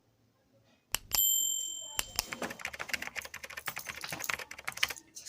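A metal clipper blade clinks with a brief metallic ring, then is worked quickly against a sharpening stone in fast scratchy strokes as it is ground down.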